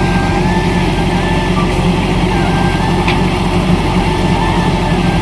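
Kubota combine harvester running steadily under load, a dense continuous machine drone with a faint wavering whine above it.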